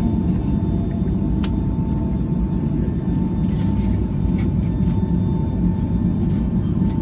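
Steady low rumble of a Boeing 757-200 airliner heard from inside the economy cabin, with a faint steady whine and a few light clicks.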